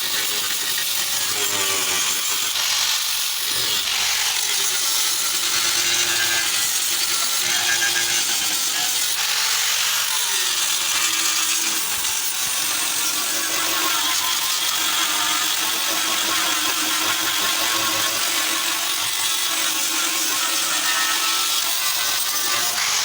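A handheld power tool running continuously on car body work, its pitch wavering slightly as it is worked.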